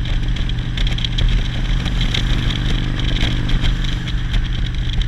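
Motorcycle engine running steadily while riding, with a rough rush of wind and road noise over it.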